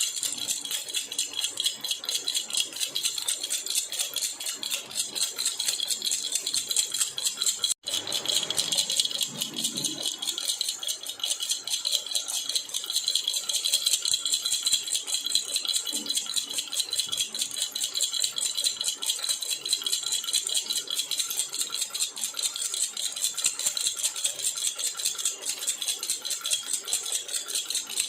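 Jhunjhuna baby rattle shaken continuously in a fast, steady jingle, cutting out for an instant about eight seconds in.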